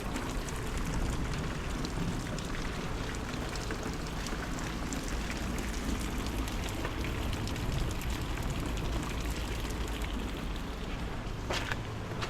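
Steady rain falling: a continuous hiss scattered with many small drop ticks, over a steady low rumble. A single sharper sound stands out about eleven and a half seconds in.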